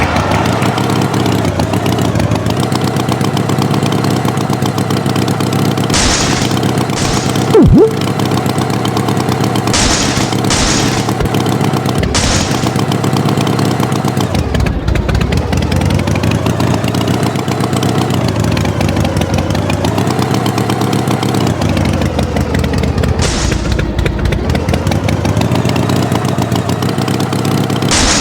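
A tractor engine running steadily, its pitch rising and falling slowly, with several sharp cracks along the way. A brief, very loud tone sounds about eight seconds in.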